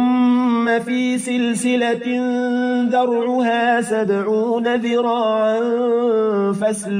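A man's voice reciting the Quran in melodic tajweed style, drawing out one long, slightly wavering sung note across the whole phrase.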